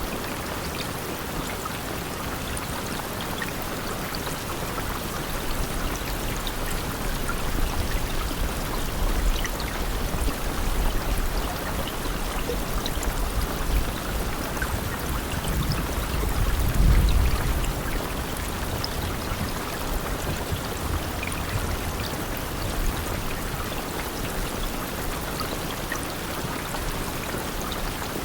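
Steady rain falling, a dense even hiss with scattered drop ticks. A low rumble swells through the middle and is loudest about two-thirds of the way in.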